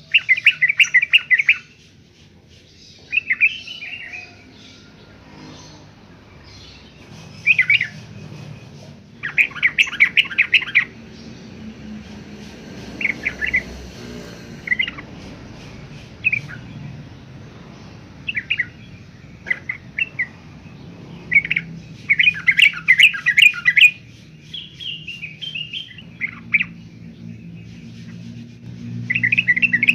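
Yellow-vented bulbul singing its chattering 'uklik-uplik' song: repeated bursts of rapid, bubbly notes about a second or two long, with shorter single phrases between them. A steady low hum lies underneath.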